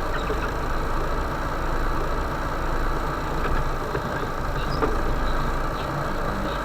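Vehicle engine running steadily while driving slowly over a rough forest track, with a couple of light knocks or rattles.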